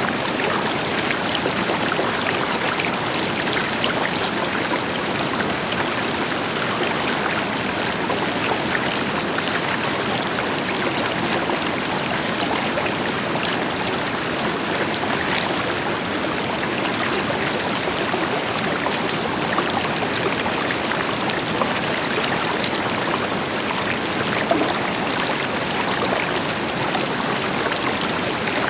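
River water flowing over stones, a steady rushing with small splashes and trickles throughout, backed by the deeper rush of a waterfall further off.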